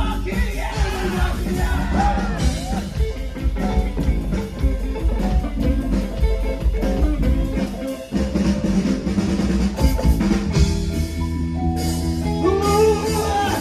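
Live band playing a song on drum kit, bass and guitar. The band drops out briefly about eight seconds in, then comes back with held chords over the bass.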